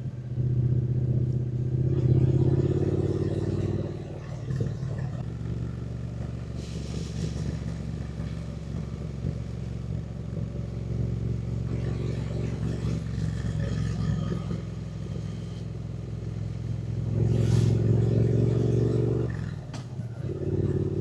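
Triumph Speed Twin 900's parallel-twin engine under way, its note rising under throttle about two seconds in and again near the end, running lower and steadier in between. The note drops briefly just before the end as the throttle closes.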